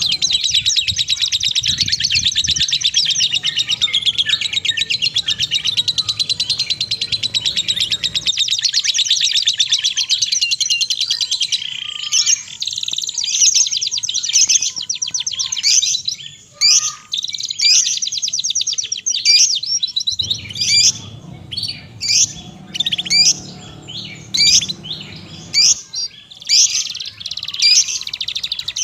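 Songbird singing: a long, very rapid high trill for about the first eleven seconds, then a run of separate sharp chirps and whistled notes with short gaps between them.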